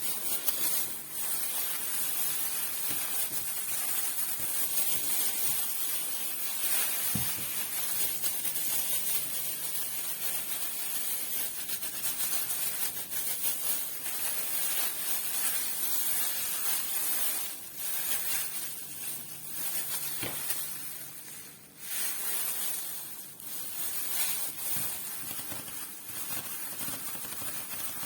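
Close-up rustling and scratching on an ASMR microphone: a continuous dense rustle, dipping briefly a few times in the second half.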